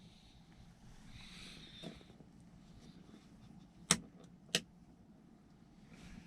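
Quiet background with two sharp clicks a little over half a second apart, about four seconds in.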